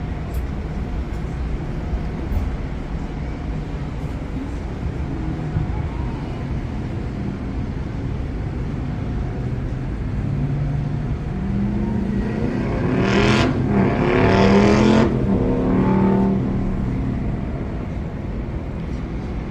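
Steady low harbour rumble, with an engine passing by for several seconds past the middle, its pitch shifting as it goes and surging loudest twice.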